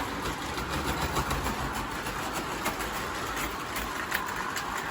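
O gauge electric model locomotive running under heavy load as it hauls a long train, its motor humming steadily with frequent small clicks of wheels over the track.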